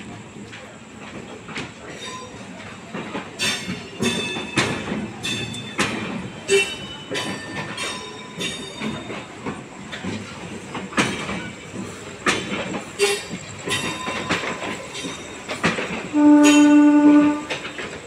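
Indian Railways passenger coaches rolling slowly past, their wheels clanking and squealing repeatedly. About sixteen seconds in, a loud train horn sounds once for about a second.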